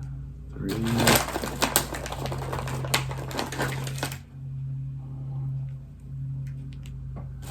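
Crinkling of a torn-open plastic snack pouch and the clicking of small crunchy wafer cookies as they are taken out of it, dense for about three seconds and then a few faint clicks, over a steady low hum.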